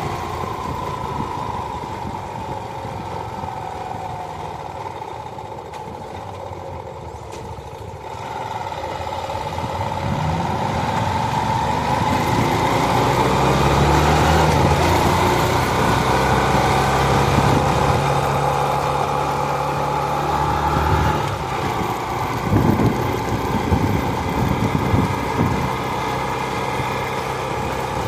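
Motorcycle engine running, with traffic and road noise. The sound grows louder about ten seconds in, the low engine note shifts in steps for several seconds, and a few short louder bangs follow near the end.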